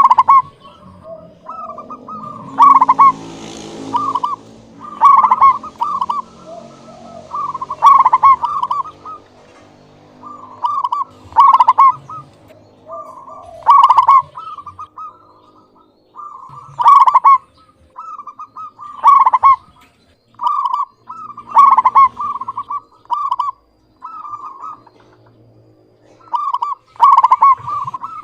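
Zebra dove (perkutut) cooing, repeating its short phrase of quick, clear notes every two to three seconds.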